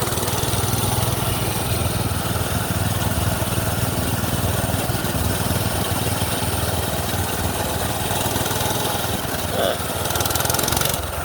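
Minibike's small gas engine running steadily.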